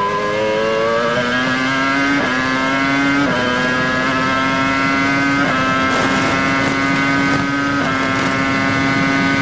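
Formula 1 V10 engine heard onboard at full throttle. The revs climb over the first second or so, then hold high through four quick upshifts, each a brief blip in the pitch.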